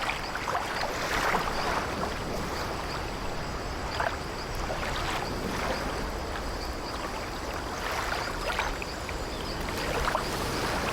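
Sleep-ambience soundscape of sea waves washing steadily against an old wooden ship, with soft swells and brief creaks from the timbers every few seconds.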